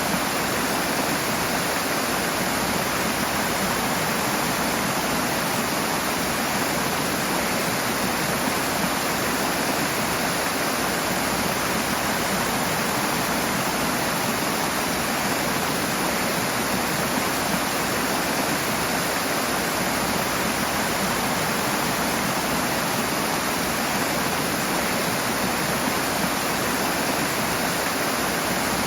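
Rushing water, a steady loud hiss from fast-flowing water in a stream or small waterfall.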